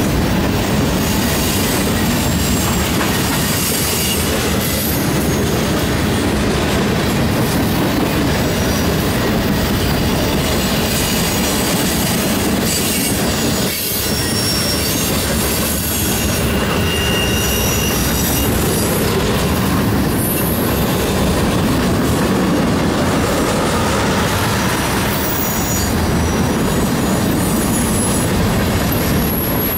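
Norfolk Southern manifest freight train's cars rolling past at close range: a loud, steady rumble of steel wheels on rail, with brief high-pitched wheel squeals now and then.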